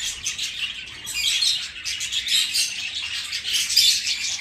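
A flock of budgerigars chattering and chirping continuously, many calls overlapping.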